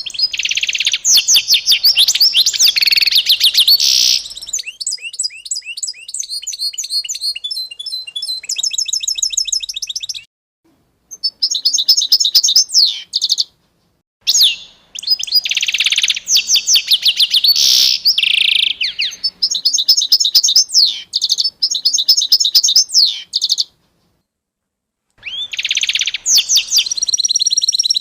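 A songbird singing long, rapid twittering songs of fast trills and repeated high chirps. The songs come in four bouts broken by abrupt, fully silent gaps.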